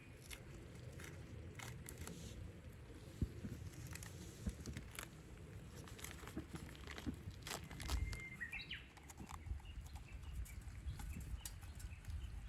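A bird gives a short whistled call, a held note that breaks into a quick higher flourish, about two thirds of the way through. Scattered small clicks and light knocks run over a low rumble of outdoor background.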